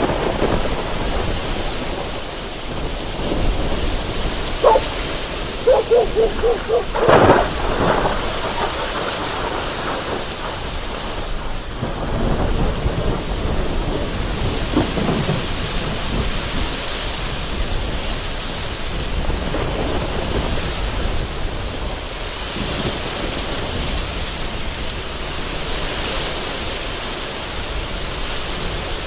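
Heavy rain beating against a window and gusting wind in a steady rush, with thunder rolling in the background. A short run of sharper sounds stands out about five to eight seconds in.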